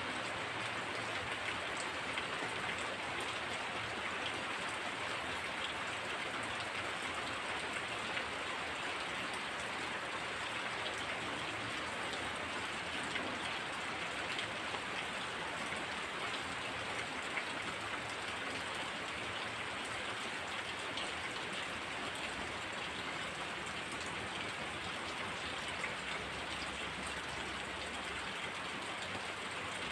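Heavy rain falling steadily, with a constant hiss of drops striking surfaces and many small distinct drop taps; no thunder.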